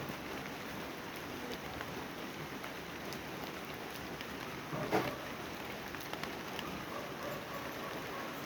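Steady rain falling, with scattered sharper drop ticks and one brief louder knock about five seconds in.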